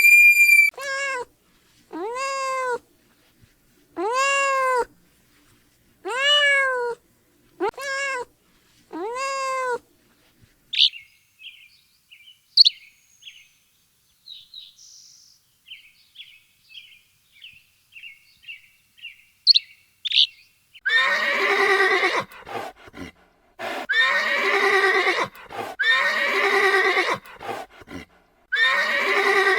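Farm animal calls in three stretches: first about seven short cries that rise and fall in pitch, roughly a second apart; then faint, high, quick chirps; then long, harsher calls repeated several times.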